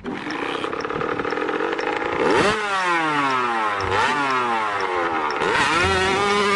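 Dirt bike engine revving up and down: the pitch climbs, falls away, jumps back up about four seconds in, falls again, then climbs and holds high near the end.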